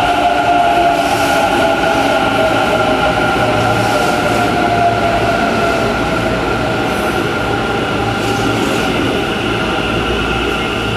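Hanshin 1000 series electric train running along an underground station platform: a steady rumble of wheels and running gear with a high whine made of several tones, the lowest falling slowly. The sound is close and echoing in the tunnel station, and eases off a little near the end.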